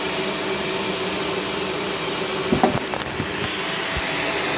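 Shark Stratos upright vacuum cleaner running steadily, its motor giving a constant whine, with a few short knocks about two and a half to three seconds in.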